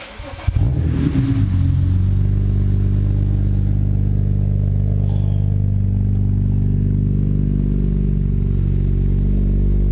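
BMW 335i's twin-turbo straight-six cold-started through an HPF Gen 2 3.5-inch stainless steel exhaust. A brief crank, then it catches about half a second in with a flare and settles into a steady, low idle. It is loud at cold start with the wastegates open, and louder for being inside a shop.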